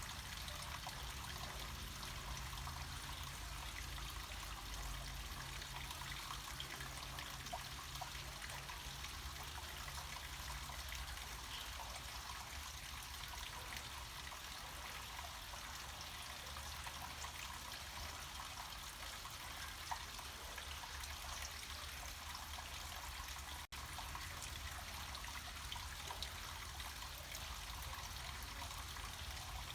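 Water trickling and splashing steadily down a small mountain waterfall, with a low rumble beneath. There is a brief dropout about 24 seconds in.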